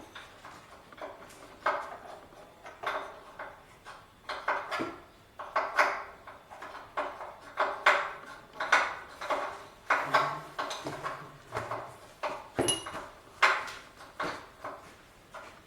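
Irregular metallic clanks and knocks of hand tools and steel parts against the tractor, some twenty sharp strikes at uneven spacing.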